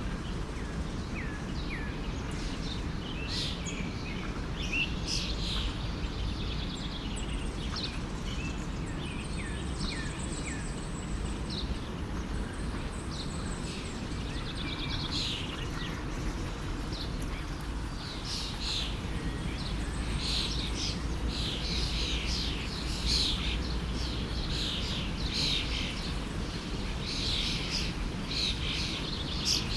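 Several birds chirping and calling in quick short notes over the steady rush of a forest stream; the chirping grows busier about halfway through.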